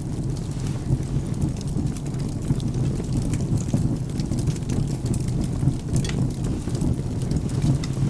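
Wood fire crackling, with scattered sharp snaps, over steady rain and a low continuous rumble.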